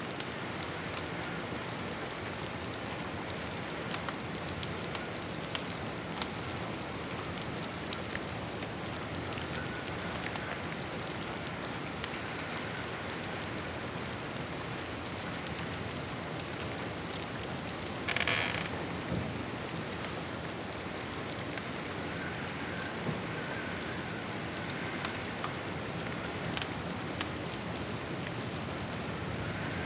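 Steady rain falling on a roof, an even hiss with scattered sharp ticks throughout. About eighteen seconds in comes a brief, louder rush of noise lasting under a second.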